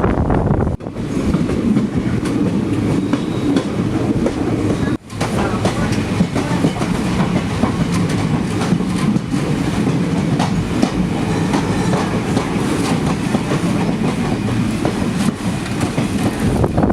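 Passenger train running along the track, its wheels clattering over the rails in a steady rumble full of small clicks. The sound drops out briefly about a second in and again about five seconds in.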